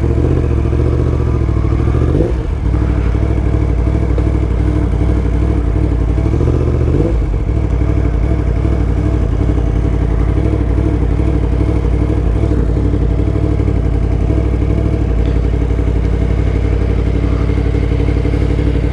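Yamaha MT-10's crossplane inline-four engine with an Akrapovic exhaust running at low revs. A couple of small throttle changes come in the first seven seconds, then it settles to a steady idle.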